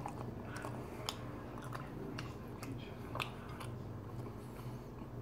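A person chewing a bite of a soft microwaved Philly steak pocket, with scattered small wet clicks and smacks of the mouth, over a faint steady low hum.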